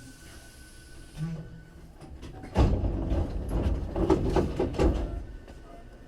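Sliding passenger doors of a Hankyu 3300 series train working during a station stop: a faint hiss, then about two seconds of loud, irregular clattering knocks.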